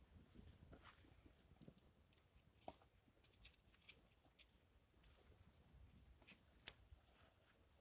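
Wood fire crackling faintly, with scattered small pops and one sharper pop near the end, over a low rumble of wind on the microphone.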